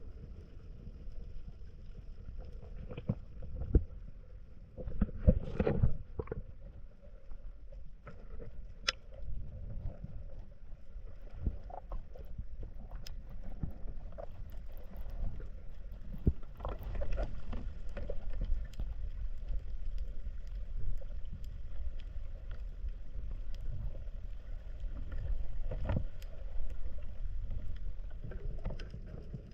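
Muffled water movement with a steady low rumble and scattered knocks and clicks.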